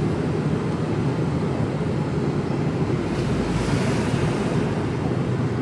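Steady low rumble of a Mercedes Actros lorry's diesel engine and road noise, heard from inside the cab while driving, swelling slightly in the deepest range midway.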